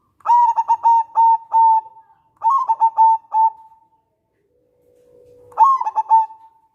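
Local zebra dove (perkutut) singing: three phrases of quick, clipped cooing notes, each ending in a longer held coo, with a pause of about two seconds before the last phrase.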